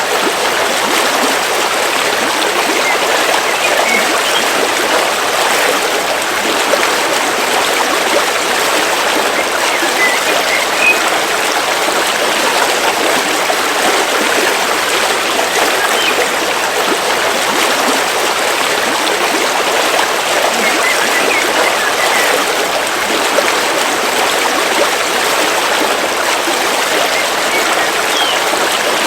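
A river flowing steadily, a constant, even rush of water, with a few faint high chirps now and then.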